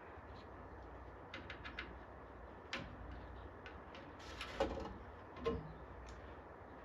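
Small clicks and light knocks of tools being handled on a circuit board while an old capacitor is desoldered, with a short hiss about four and a half seconds in.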